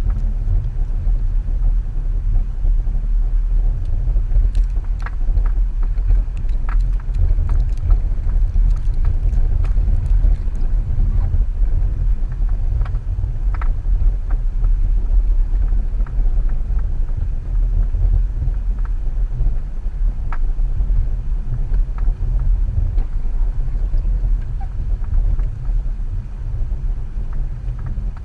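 2014 Subaru XV Crosstrek driving on a snowy off-road trail: a steady deep rumble, with scattered short knocks and clicks, mostly in the first half.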